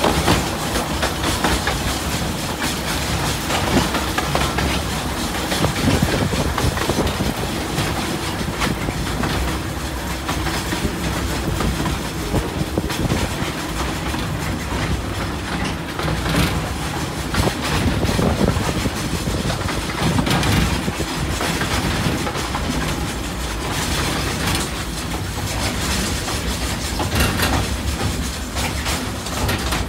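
Narrow-gauge steam railway train running steadily, heard from on board: wheels clattering over the rail joints and the carriages rattling.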